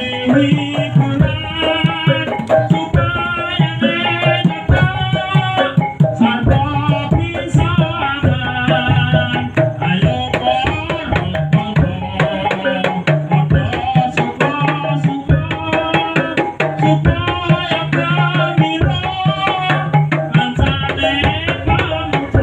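Topeng Ireng dance music: hand drums and other percussion beating steadily under a wavering melody line.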